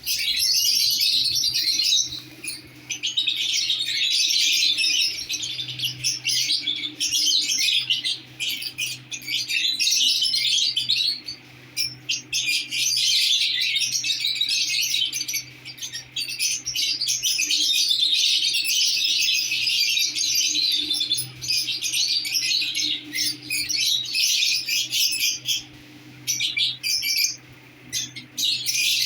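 Lovebirds chattering: rapid, shrill chirps and squawks in long runs broken by short pauses every few seconds, over a steady low hum.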